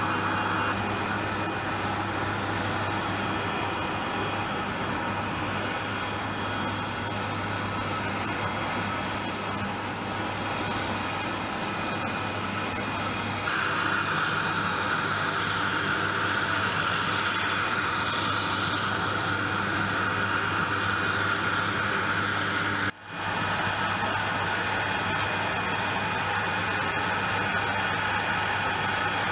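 Aircraft jet turbine running steadily: a high thin whine over a loud rush. About thirteen seconds in the whine stops and the rush changes character; there is a brief dropout near the end, after which the whine returns.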